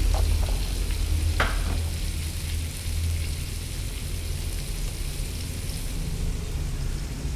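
Chopped spices sizzling in oil in a wok over a gas burner, an even hiss over a steady low rumble. A few light clicks come in the first second or so.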